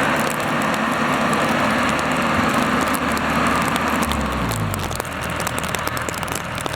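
Diesel engine of a tractor or rice harvester running steadily. About four seconds in, its pitch falls as it slows toward idle.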